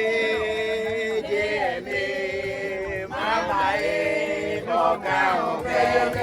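Voices singing a chant-like song with long held notes that glide from one pitch to the next.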